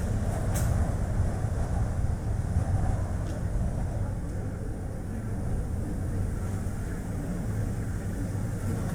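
Steady road and wind rumble of a Chevrolet Spark light car driving, a low even noise of tyres and gusting wind, with a short light click about half a second in.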